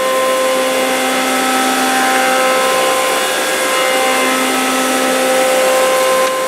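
A motor-driven machine running steadily with a loud, even drone and a set of steady hum tones; the lowest hum drops out for about a second a little after the midpoint, then returns.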